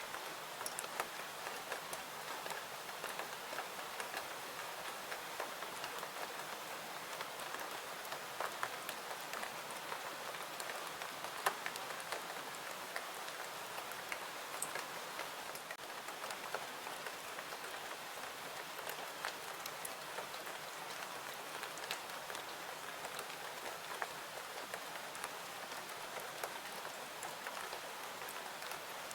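Steady rain with the scattered crackle of a wood fire mixed in; the sharpest crack comes about eleven seconds in.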